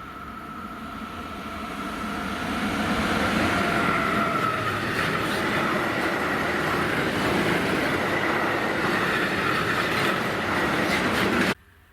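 A train passing close by on the line, growing louder over the first few seconds and then running loud and steady, with a high whine and a rapid series of wheel clicks over rail joints. The sound cuts off abruptly near the end.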